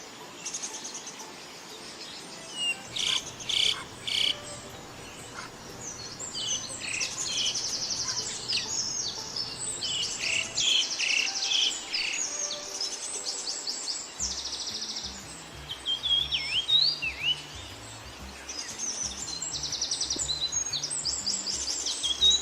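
Several birds calling and singing together in quick succession, with rapid buzzy trills and sharp chirps, and a few downslurred whistled notes about two-thirds of the way through.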